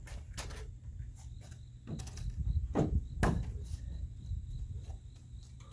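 A few separate wooden knocks and bumps of a lumber board being handled and fitted into place, the strongest about three seconds in.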